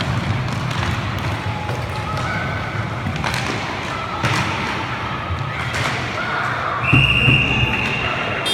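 Roller hockey game in a hall: players and spectators shouting, with sharp knocks of sticks and puck. Near the end a shrill referee's whistle sounds for about a second and a half.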